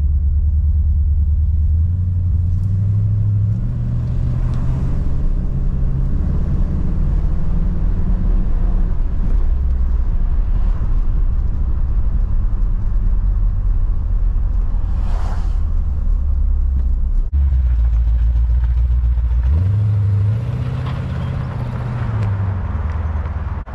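The 1970 Cadillac Eldorado's 8.2-litre (500 cu in) V8 running as the car is driven, heard from inside the cabin as a loud, steady low drone. It rises in pitch as the car picks up speed about two seconds in. Near the end it is heard from outside, a little quieter, rising and falling again.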